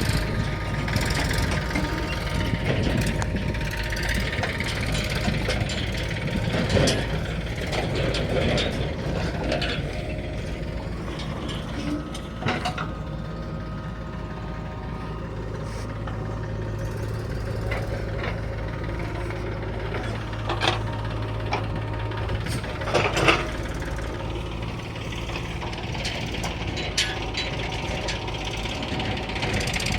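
Diesel engine of heavy earthmoving machinery running steadily, with a few sharp knocks and clanks scattered through.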